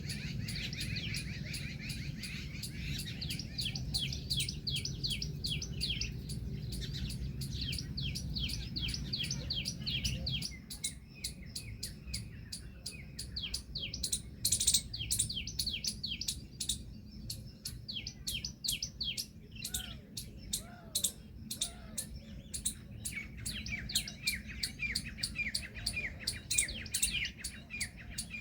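Many birds chirping, with quick high peeps repeated several times a second by overlapping voices. A low rumble under them stops suddenly about a third of the way in.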